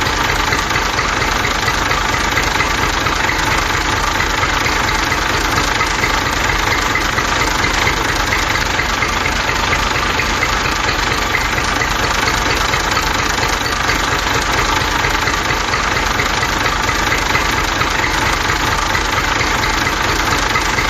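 Small motor of a homemade toy tractor running steadily, with a fast, even rattle.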